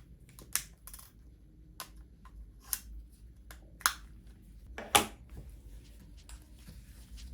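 Irregular light clicks and taps, roughly one a second, the loudest two near four and five seconds in, over a faint low hum.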